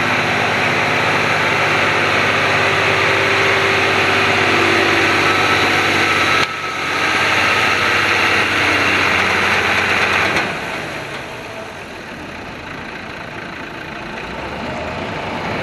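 A pulling vehicle's engine running loud and hard, with an abrupt break about six and a half seconds in; about ten seconds in it drops to a quieter, steady running sound.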